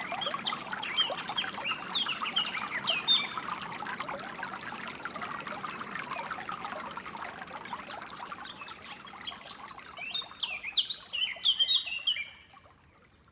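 Flowing stream water trickling steadily, with several songbirds chirping and singing over it, most busily near the end. About twelve seconds in, both fade out to near silence.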